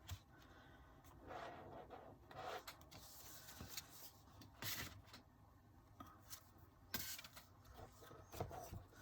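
Near silence with faint rustling of paper and plastic album contents being handled, a few brief soft rustles a couple of seconds apart.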